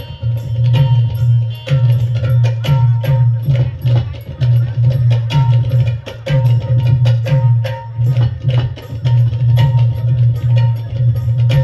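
Dholki played in a fast, steady rhythm: deep bass strokes pulsing under sharp, crisp slaps on the treble head.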